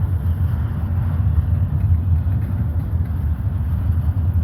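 Intermodal stack train rolling past with a steady low rumble.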